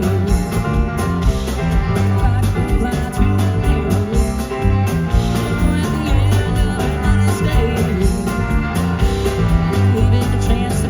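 Country-rock band playing live, electric guitar over bass and drums with a steady beat.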